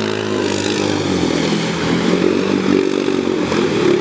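ATV engine revving hard, its pitch climbing and dropping repeatedly as the throttle is worked.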